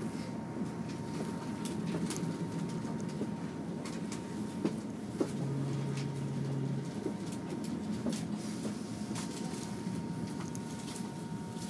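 Electric commuter train running, heard from inside the carriage: a steady rumble and hum with irregular clicks and knocks from the wheels over the track. A short, steady low hum sounds a little past the middle.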